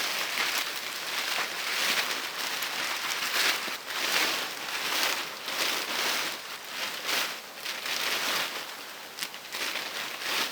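Rain falling: a steady patter that swells and eases every second or two.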